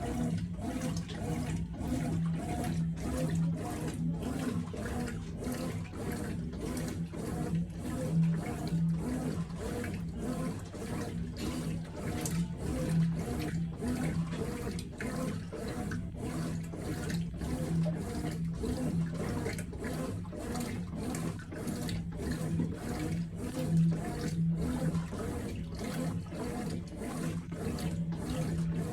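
Consul 9 kg top-loading washing machine washing a load: a steady motor hum with water churning and sloshing in an even rhythm of about two pulses a second.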